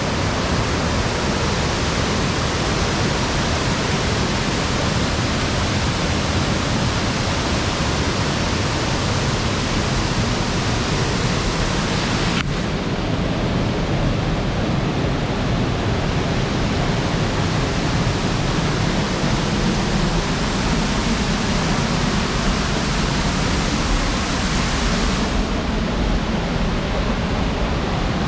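Waterfall cascading into a mountain gorge: a loud, steady rush of falling water. The high hiss drops abruptly about twelve seconds in and partly comes back near the end.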